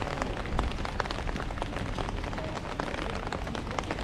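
Heavy rain drumming on an umbrella overhead: a dense, irregular stream of close drop ticks over a steady rain hiss.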